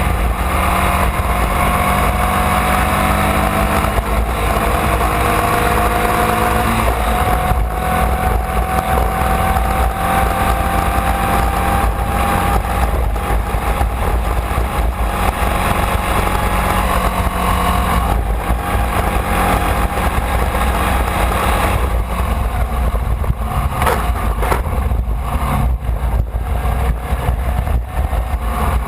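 Formula Vee race car's air-cooled Volkswagen flat-four engine running hard, heard from on board, its pitch climbing slowly for most of the stretch. Near the end the engine note drops away and turns choppy, with clatter over a heavy low rumble of wind buffeting the camera.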